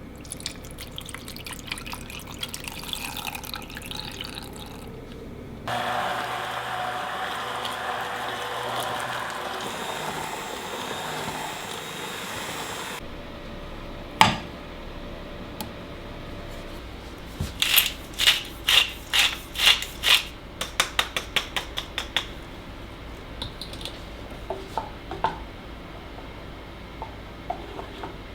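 Kitchen tap running in a steady stream for about seven seconds, then a single sharp knock, and a few seconds later a quick run of about twenty sharp taps at roughly four to five a second.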